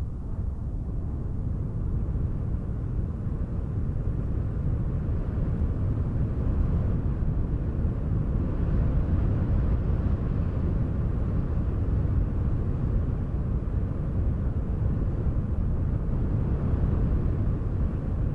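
Wind blowing in a steady low rumble with gentle gusts, swelling slightly after the first couple of seconds.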